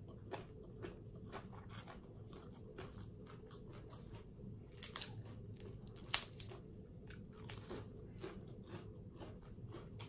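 Close-up chewing of a mouthful of crunchy shredded green papaya salad with rice noodles: a steady run of wet crunches and mouth clicks, a few each second, with one sharper crunch about six seconds in. A faint low steady hum underneath.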